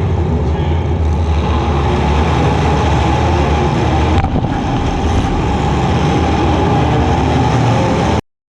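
Compact demolition-derby car's engine running steadily, heard loud from the on-board camera, with one sharp click about four seconds in; the sound cuts off abruptly near the end.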